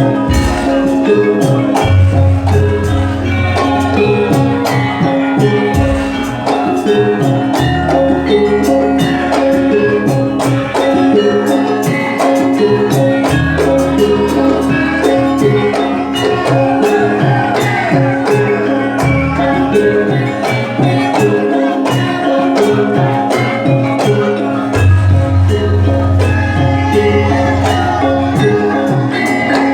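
Javanese gamelan music playing: metallophones ringing in steady patterns over dense drumming, with a deep low note that comes in for several seconds at a time and drops out.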